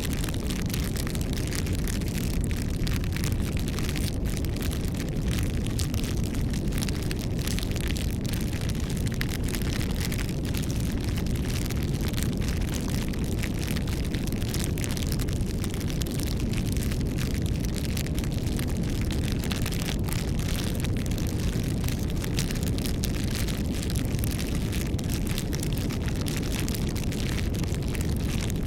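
Wood campfire burning: a steady low rumble of flames with frequent small crackles from the burning wood.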